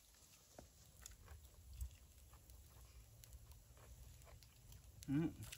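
Faint sounds of people chewing and eating grilled pork over a low steady rumble, with a few soft clicks. Near the end comes one short vocal sound from one of the eaters.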